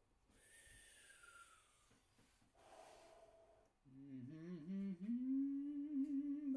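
A man breathing loudly through his mouth, two breaths, the first with a faint whistling tone that falls in pitch. About four seconds in he starts humming a wordless melody, settling on one held note, louder than the breathing.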